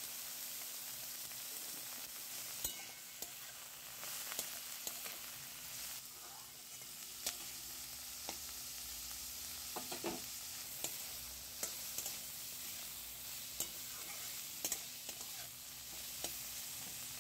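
Diced vegetables frying in oil in a metal kadai with a low, steady sizzle, while a metal spatula stirs them, scraping and clicking against the pan now and then.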